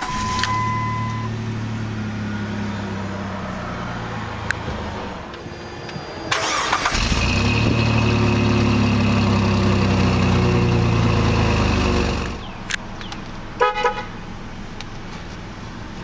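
A 2002 Jeep Liberty idling. About six seconds in, a louder steady drone joins for some five seconds and then cuts off abruptly. A few clicks follow near the end.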